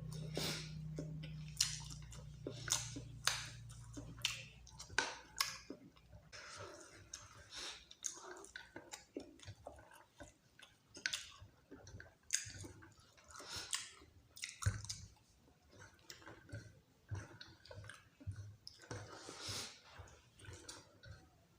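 Close-up chewing and mouth smacking of someone eating dal bhat with meat curry, in quick irregular wet clicks, louder in the first few seconds.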